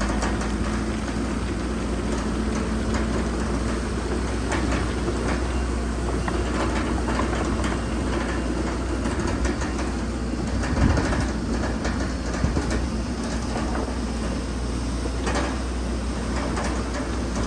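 Bulldozer's diesel engine running steadily with a deep rumble, with scattered clanks and knocks, the loudest about eleven and fifteen seconds in.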